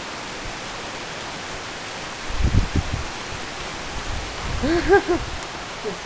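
Wind-driven rain pouring steadily in a storm, with gusts of wind rumbling on the microphone from about two seconds in.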